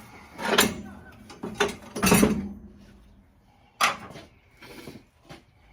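Hand tools and metal engine parts being handled: a string of separate clanks and scrapes, the loudest about two seconds in.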